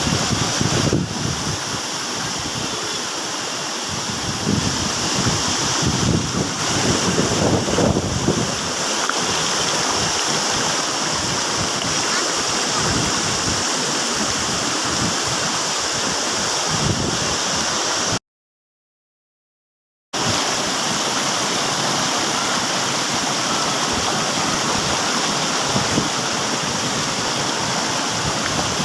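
Steady, loud rushing of a waterfall, with uneven low rumbling over the first several seconds. The sound cuts out completely for about two seconds about two-thirds of the way through.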